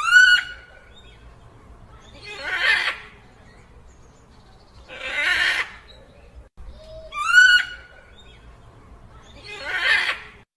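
Dinosaur creature sound effect: a short, high, pitched shriek that rises and breaks, followed by two breathy, hissing calls a couple of seconds apart. The whole sequence plays twice.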